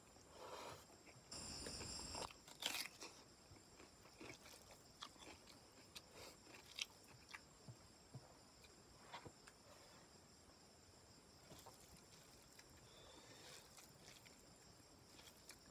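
Close-miked eating sounds: chewing a mouthful of chicken curry and rice, with small wet mouth clicks and fingers squishing rice on the plate. The loudest chewing and clicking comes in the first few seconds, then softer scattered clicks.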